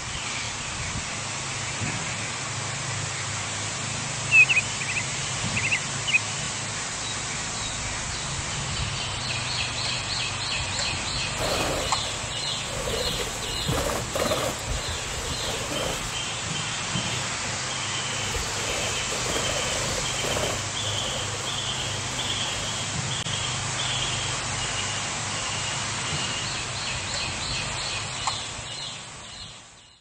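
Birds calling over a steady background hiss: a few loud high calls, then long runs of rapid repeated chirps, with some lower calls partway through. The sound fades out near the end.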